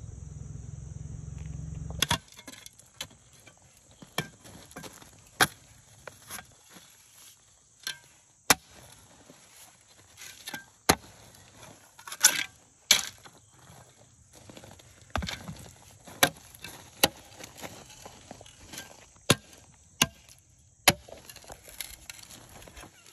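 A hand tool clearing loose gravel and broken pieces of old asphalt out of a driveway patch hole: irregular sharp knocks and scrapes, roughly one a second, with a few louder strikes.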